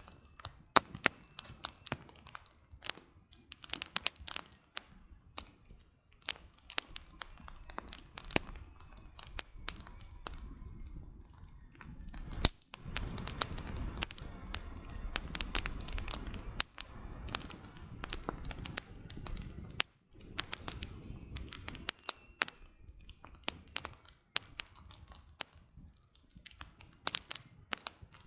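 Campfire of burning firewood crackling, with many sharp irregular pops and snaps of the wood. From about twelve to seventeen seconds in, a low rushing noise swells under the crackle, then falls away.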